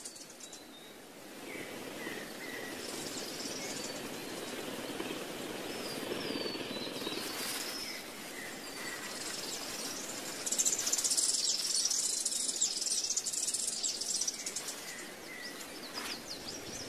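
Outdoor nature ambience: a steady hiss with short, high bird chirps scattered through it, and a denser high hiss for a few seconds past the middle.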